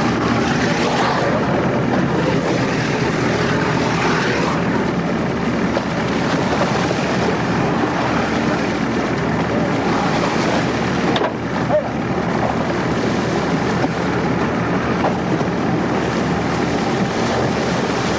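Small boat's engine running steadily, with wind noise.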